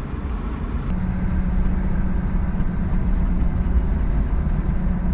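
Pickup truck driving on the road: a steady low engine and road rumble, with a steady hum joining about a second in.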